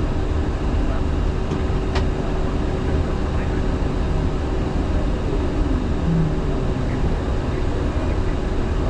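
Steady flight-deck noise of an Airbus A350-900 in the climb after takeoff: air rushing past the cockpit and engine hum, with a faint steady tone. A single sharp click about two seconds in.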